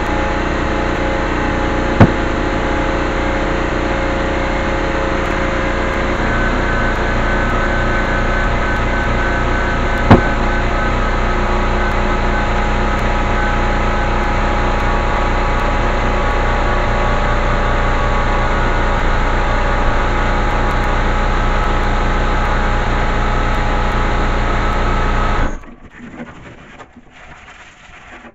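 Electric dual-action sander running steadily on the fibreglass body panels, with a couple of sharp knocks. It cuts off suddenly near the end.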